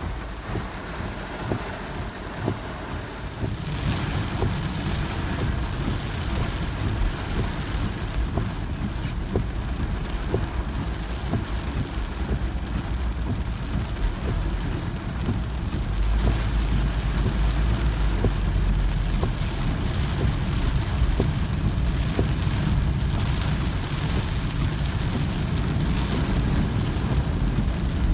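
Heavy rain falling steadily, with scattered sharp drop ticks and a low rumble underneath that grows louder about halfway through.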